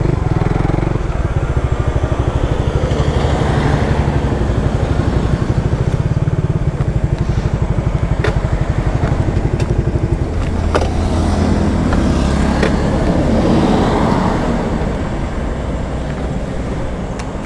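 Suzuki Raider 150 Fi motorcycle's single-cylinder engine running while riding, with a fast, even pulse that smooths out about two-thirds of the way through. A few sharp clicks are heard in the second half.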